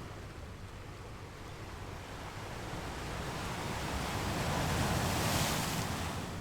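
Ocean waves breaking on a beach: a steady wash of surf that swells to a peak about five seconds in as a wave breaks, then quickly eases off.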